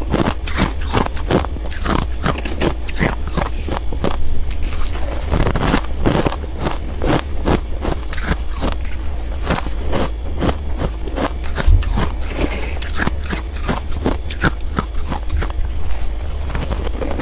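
Frost being bitten and chewed close to the microphone: a dense run of irregular crunches, several a second, over a steady low hum.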